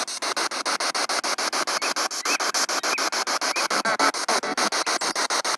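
Spirit box sweeping through radio stations: hissing static chopped about ten times a second, with brief scraps of broadcast sound between the cuts.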